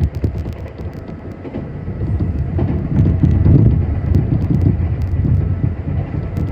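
Running sound of a Nankai 7100-series electric train with resistance control: a steady low rumble of wheels on rail and the moving car, with faint steady motor tones. It eases a little in the first couple of seconds, then grows louder again.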